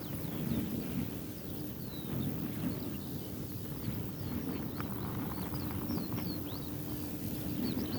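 A thin silk veil flapping and fluttering noisily in strong wind, with wind rumbling on the microphone. Small birds chirp in the background throughout.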